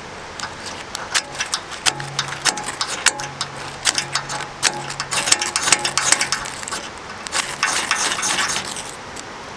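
Campfire crackling, with rapid irregular clicks and pops from burning kindling. A low hum comes and goes between about two and seven seconds in.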